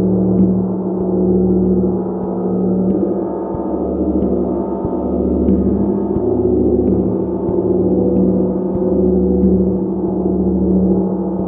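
A gong played continuously: a dense, sustained wash of overlapping ringing tones that swells and eases in waves every couple of seconds, renewed by soft strikes every second or two.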